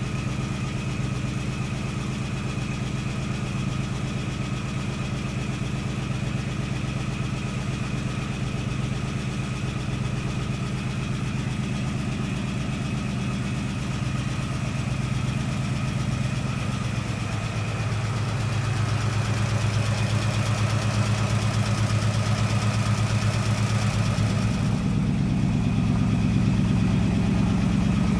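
1969 AMC Javelin's 290 V8 idling steadily, still cold on its first run after months of sitting. It gets a little louder in the last third.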